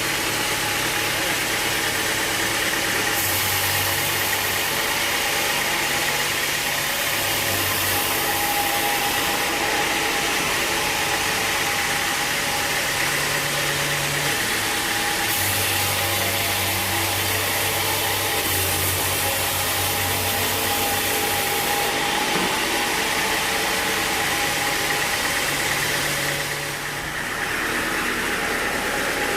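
Sawmill machinery running steadily, an engine-like hum with a high hiss, with lower drive sounds coming and going every few seconds and a brief drop in level near the end.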